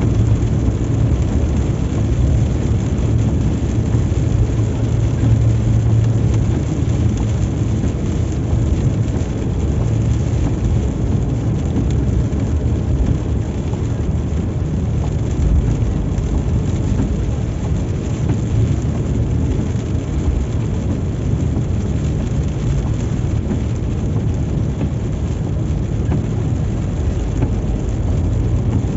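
A car driving in heavy rain: a steady low rumble of engine and tyres on the wet road, with rain noise over it.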